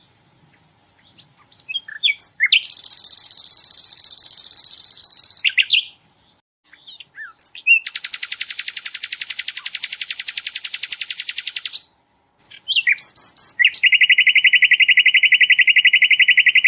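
Sikatan londo flycatcher singing its 'tembakan' song: three long, very fast trills of rapidly repeated notes, each lasting about three to four seconds at a different pitch, the last one lowest, with short chirps between them.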